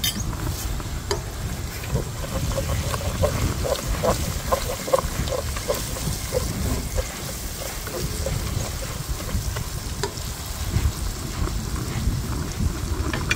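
Onion-and-tomato masala with freshly added ground spices sizzling and popping in hot oil in a non-stick pot as it is stirred with a silicone spoon. The crackles come thickest a few seconds in, over a steady low rumble.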